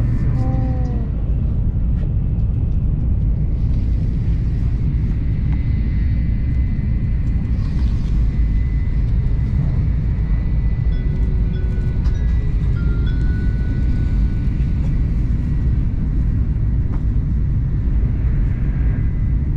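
Steady low rumble of a Tokaido Shinkansen Nozomi train running at speed, heard inside the passenger cabin, with a few faint thin high tones drifting over it.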